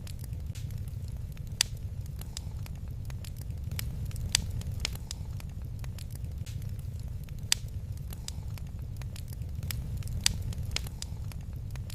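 Wood fire crackling in a fireplace: a steady low rumble of flame with sharp pops scattered irregularly through it, a few louder ones standing out.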